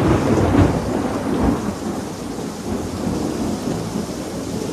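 Thunder rumbling and slowly fading just after a lightning strike, over steady rain.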